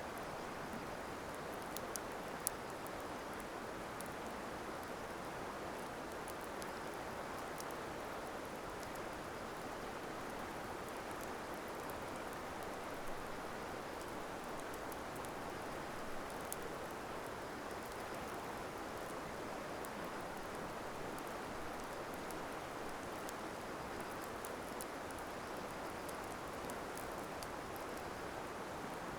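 Wood campfire burning, with scattered sharp crackles and pops over a steady rushing noise.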